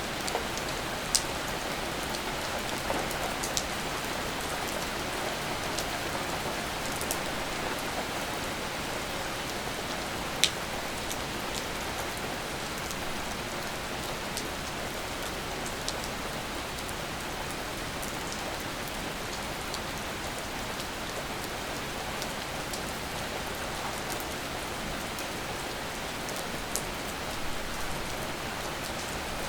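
Steady rain falling, an even hiss with scattered louder drops striking close by, the sharpest about a second in and about ten seconds in.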